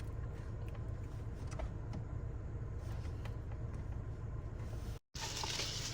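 Low steady rumble with a few faint clicks, then a brief cut to silence near the end.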